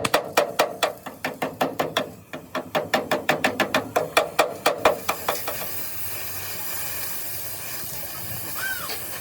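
Hammer beating sheet steel, about four blows a second with a ringing metal tone, pausing briefly near two seconds and stopping after about five seconds. A steady hiss then takes over.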